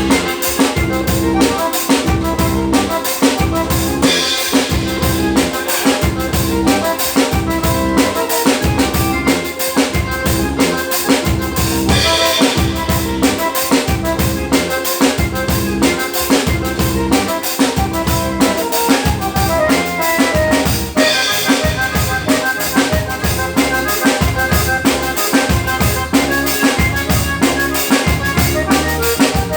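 Live band playing an instrumental through a PA during a sound check, the drum kit's kick and snare keeping a steady beat under the other instruments.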